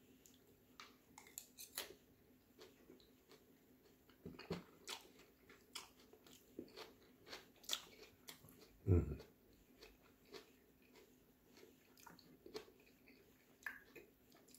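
A man chewing a mouthful of lettuce-and-black-bean salad close to the microphone: quiet, irregular crunchy clicks, with one low thump about nine seconds in.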